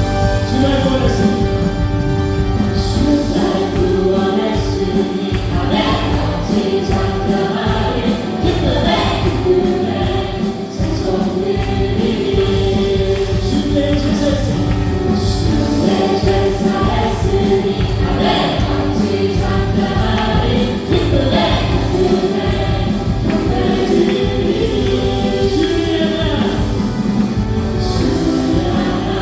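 Live worship band playing with a group of singers: keyboards, synthesizer, electric guitar, bass and drums under several voices singing a praise song with a steady beat.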